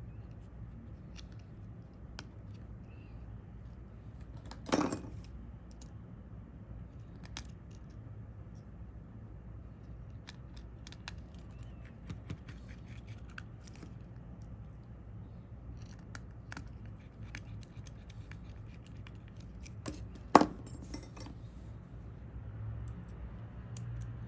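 Small hard clicks and taps of repair tools on the parts of an opened smartphone, with two louder sharp clicks, one about five seconds in and one near twenty seconds, over a steady low hum.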